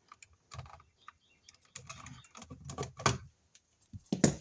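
Irregular light clicks and taps of stiff solid copper house wires being handled and bent into place in an electrical junction box, with a sharper click near the end.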